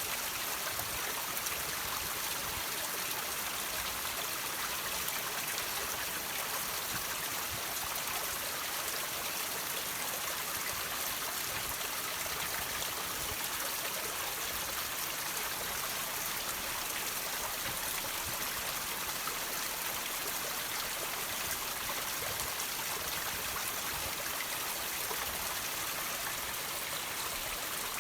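Water trickling and dripping off rocks: a steady, even splashing hiss that does not change.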